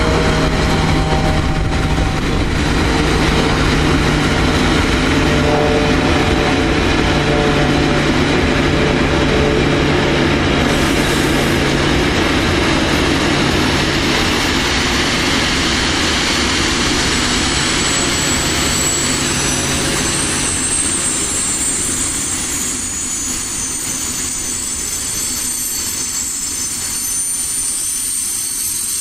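EU07 electric locomotive hauling container wagons arriving, with a steady electric hum and wheels rumbling on the rails. From about two-thirds of the way in, high squealing tones join as it slows to a stop, and the hum stops.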